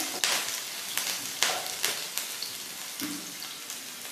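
Chopped green chilli and cumin seeds sizzling steadily in hot oil in a nonstick frying pan, with a few short clicks of the spatula against the pan.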